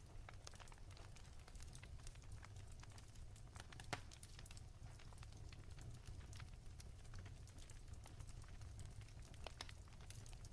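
Wood fire crackling softly, with irregular small pops and a louder pop about four seconds in, over a low steady rumble.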